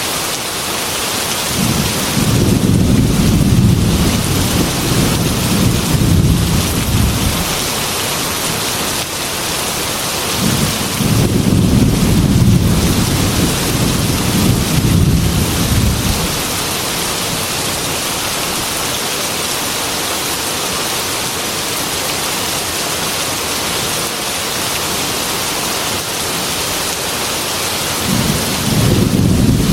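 Heavy rain hissing steadily on a glass window, with low rolling thunder: one rumble of some six seconds starting about two seconds in, another from about ten to sixteen seconds, and a third building just before the end.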